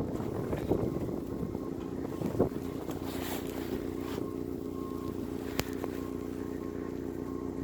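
A vehicle engine idling steadily, with wind buffeting the microphone and a brief click about five and a half seconds in.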